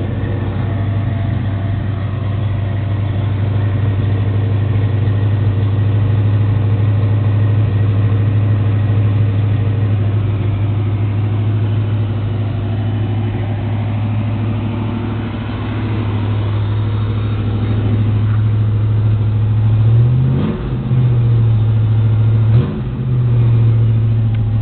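1990 Ford Mustang's 5.0 V8 with a Comp Cams .512-lift cam idling steadily through its exhaust, then revved briefly twice near the end.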